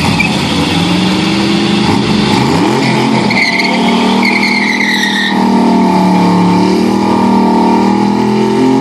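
Drag-racing Toyota Hilux's swapped LS V8 running at high revs, its pitch climbing, dropping a little under 3 s in, climbing again and then holding steady, with tyres squealing in the middle stretch.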